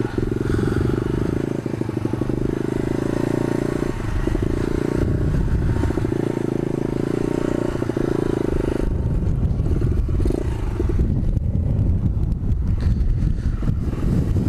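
125cc pit bike engine running steadily, turning rougher and lower from about nine seconds in.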